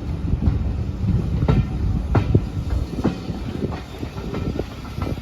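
Railway carriages rolling on the rails, a steady rumble broken by irregular sharp clacks and clunks.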